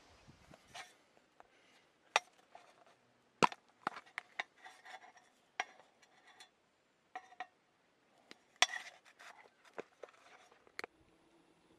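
Small hard objects being handled: an irregular run of clicks, knocks and light clinks with short pauses between, the two loudest knocks about three and a half and eight and a half seconds in.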